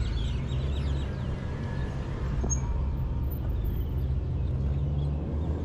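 Steady low rumble of nearby car and motorbike engines in slow market traffic.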